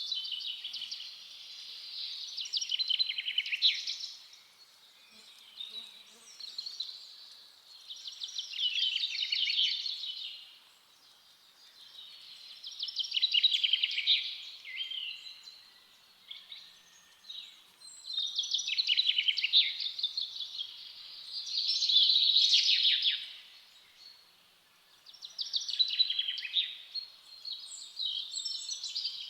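A songbird singing, repeating a fast, trilling phrase every few seconds.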